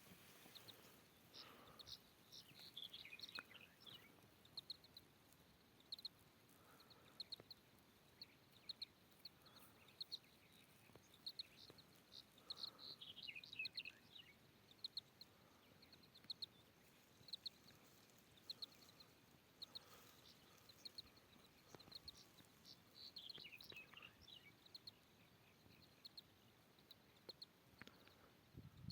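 Faint birdsong: a short high chirp repeated about once a second, with a longer falling phrase sung three times, roughly every ten seconds.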